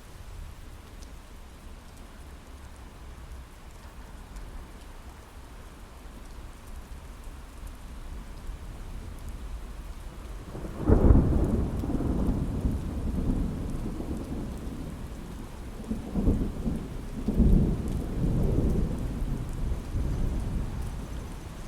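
Steady rain pattering on a window, then a thunderclap about halfway through that rolls on as low rumbling, with two more swells of thunder a few seconds later before it fades.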